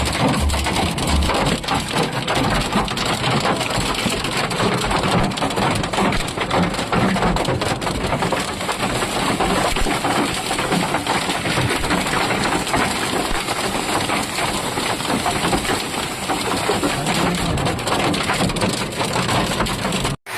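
Heavy rain and hail pelting down: a dense, steady patter of countless drops and hailstones striking surfaces.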